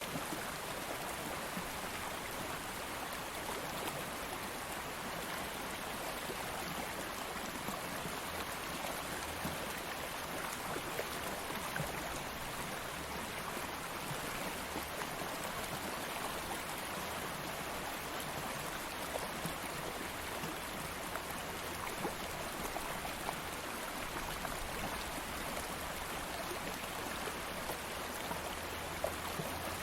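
Stream of water flowing steadily over rocks, an even rushing with small splashes and trickles.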